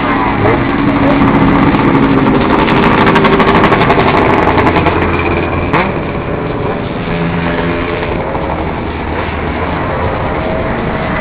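Motorcycles passing with their engines running and revving, the sound swelling to its loudest a few seconds in and easing off after about six seconds. A quick run of sharp pops rides on top while it is loudest.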